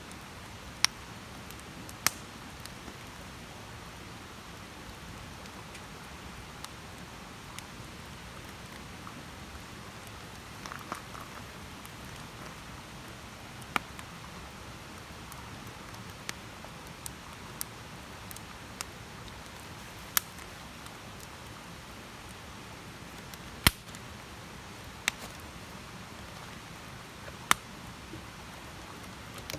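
Wood campfire burning: a steady soft hiss with sharp crackles and pops every few seconds, the loudest pop a little before the last quarter.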